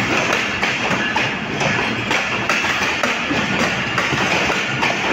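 Pakistan Railways passenger coaches rolling past on the track: a steady rumble and rail noise, with the wheels clicking over the rail joints.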